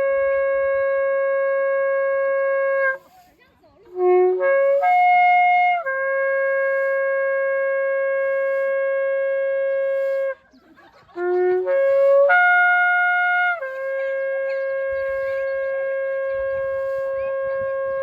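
Shofar blown in long, steady blasts: three in all, the first ending about three seconds in and the next two each opening with quick short notes that jump from low to higher before settling on one long held note, with a brief pause for breath between them.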